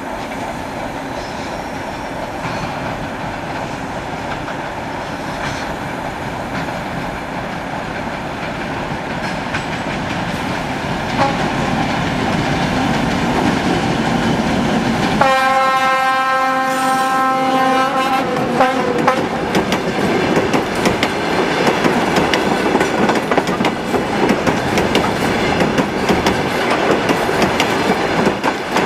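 ChME3 diesel shunting locomotives running and rolling along the track, growing louder, with wheels clicking over rail joints. Just past halfway the locomotive horn sounds one blast of about three and a half seconds.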